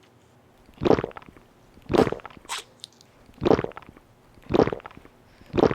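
Five short wet drinking sounds about a second apart, gulps or slurps of fizzy soda, each a quick crackly burst.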